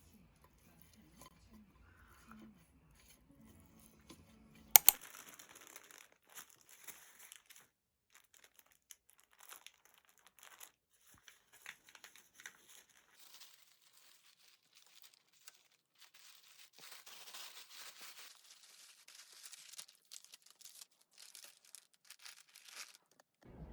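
Crinkling, rustling and tearing of packaging being handled, in many short irregular crackles, with one sharp loud click about five seconds in.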